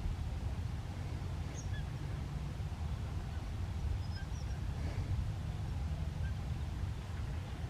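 A few faint, short bird chirps scattered over a steady low rumble, likely wind on the microphone.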